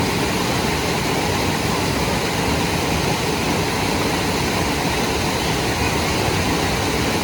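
A waterfall, Aber Falls (Rhaeadr Fawr), making a loud, steady rush of falling water with no breaks.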